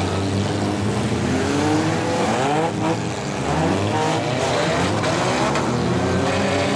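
Several small-car engines in a demolition derby revving hard together, overlapping rising and falling whines over a steady rumble as the cars accelerate across the dirt arena.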